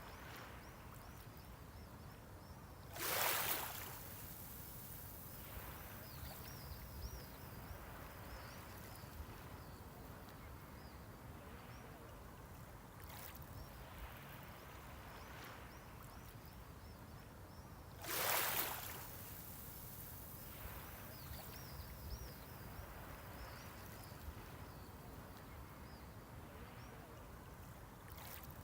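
Small sea waves breaking on the shore, one about three seconds in and another near eighteen seconds, each a short wash under a second long, over a low steady hiss of the sea.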